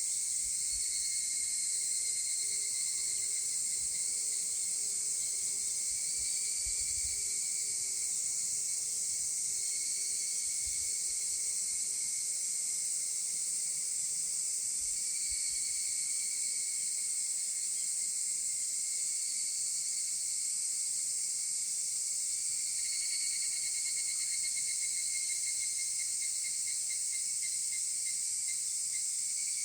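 Higurashi (evening cicadas) calling in a chorus: overlapping calls swell and fade over a steady high-pitched insect hiss. About three-quarters of the way through, one call turns into a rapid pulsing trill.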